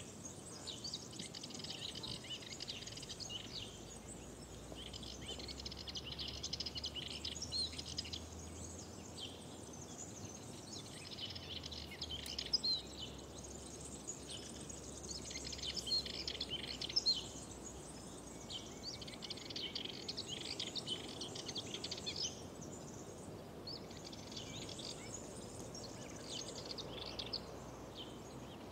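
Songbirds singing in high, chirping phrases of a second or two with short gaps between them, over a faint steady background noise.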